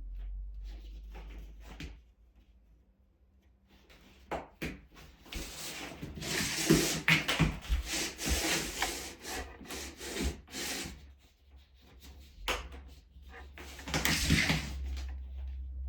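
Heating cable being pressed into the studs of a Schluter Ditra-Heat plastic membrane by hand: irregular rubbing and scraping with many small clicks, loudest in two spells, in the middle and near the end.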